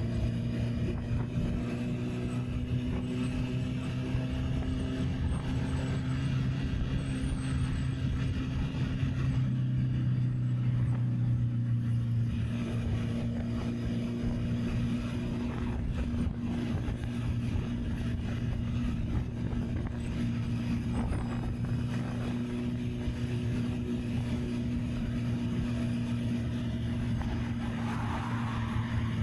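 Honda CB650R's inline-four engine running at a steady cruising speed with an even, unchanging tone, with wind noise on the action camera's microphone.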